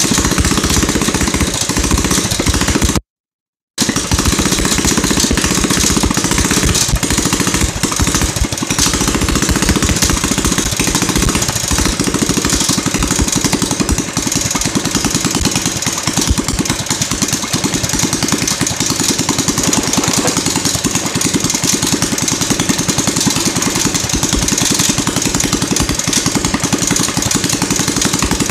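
Predator 212 single-cylinder four-stroke mini bike engine running loud through a custom exhaust, a fast, steady stream of firing pulses. The sound drops out completely for under a second about three seconds in.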